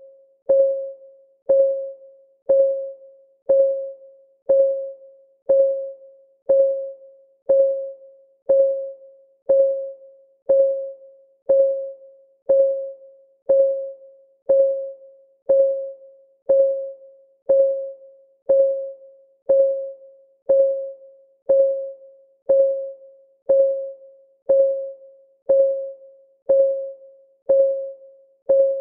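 Countdown timer's clock ticking sound: one sharp tick each second, each with a short pitched ring that dies away before the next, steady and evenly spaced.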